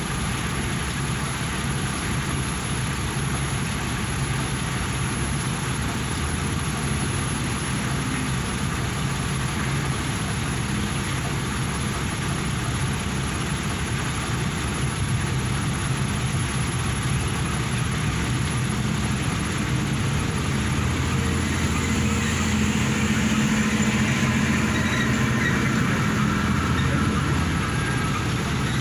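Engine idling steadily after a main-bearing rebuild, a low even drone with no knocking.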